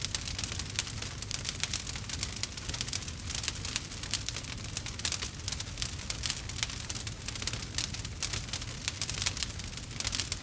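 Campfire crackling: a dense, irregular run of small pops and snaps over a steady low rumble.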